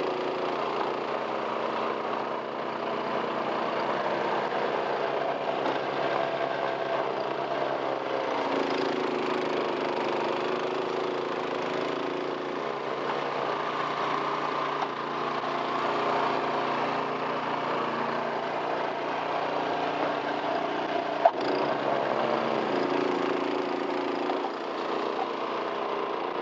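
Small engine running steadily under varying load, its pitch shifting a few times, with one sharp knock late on.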